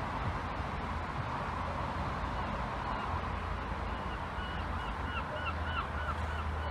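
A bird calling outdoors: a series of short, repeated calls, about three a second, starting about three seconds in. A steady low rumble runs underneath.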